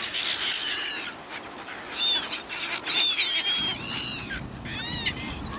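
A flock of silver gulls calling, many short, harsh, arching cries overlapping and repeating. A low rumble of background noise comes in a little past halfway.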